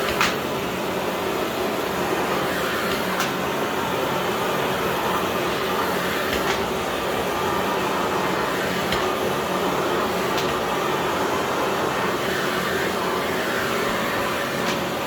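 Philips PowerPro FC9331/09 bagless vacuum cleaner with its 900 W motor running steadily, with a faint click every few seconds.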